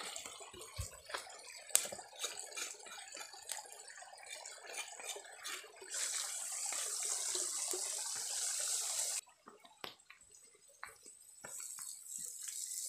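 Oil and spice paste frying in a wok over a wood fire: sizzling and crackling with scattered clicks, settling into a steady hiss. The hiss cuts off suddenly about two-thirds of the way through and builds again near the end.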